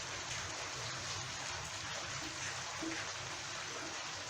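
Heavy rain falling, a steady wash of water noise.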